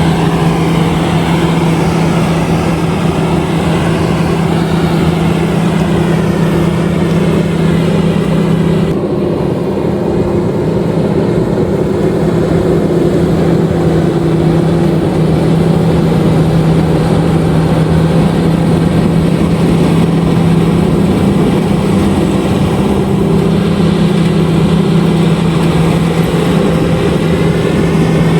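Lovol RG130EVO combine harvester running steadily while harvesting rice: a loud, even engine drone with machinery noise over it. The higher hiss drops away suddenly about nine seconds in.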